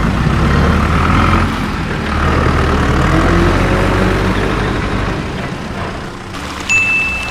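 Heavy truck engine running with a low rumble that swells and eases off. Near the end a sudden click is followed by a steady high beep.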